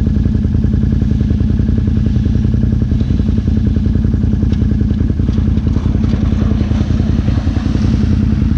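Second-generation Dodge pickup truck's engine running loud and steady, its pitch holding level with no rise or fall.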